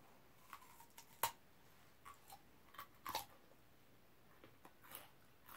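A person chewing a crisp raw chunk with the mouth closed: faint, scattered crunches, the sharpest about a second in.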